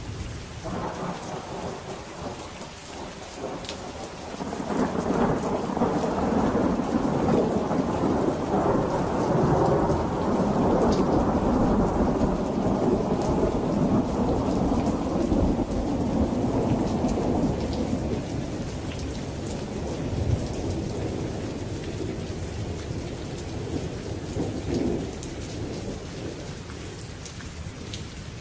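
Steady rain with a long rolling thunder rumble that builds about five seconds in, holds for around ten seconds and slowly dies away.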